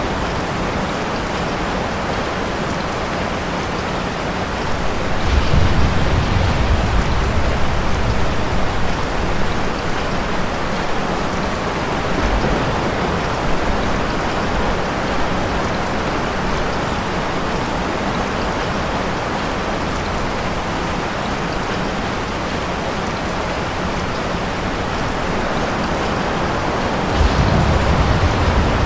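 Steady heavy rain with a low rumble of distant thunder swelling about five seconds in and again near the end.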